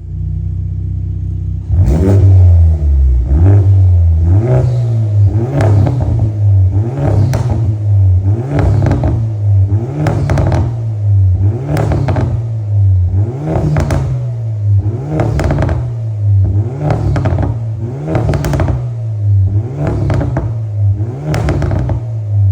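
Hyundai i30 N's turbocharged 2.0-litre four-cylinder through a 3-inch GPF-back aftermarket exhaust with the stock particulate filter kept. It idles for about two seconds, then is revved in quick repeated blips, about one every second and a half, each climbing and dropping straight back.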